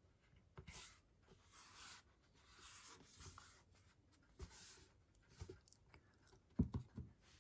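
Faint rustling and scraping of cardboard and paper being handled, with a few soft knocks near the end.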